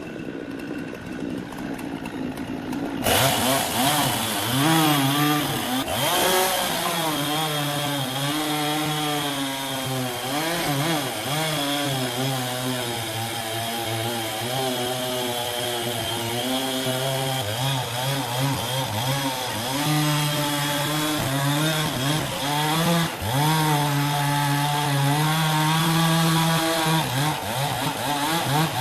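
Chainsaw cutting wood. It runs more quietly for about three seconds, then opens up suddenly to full throttle, its engine pitch dipping and recovering again and again as the chain loads up in the cut.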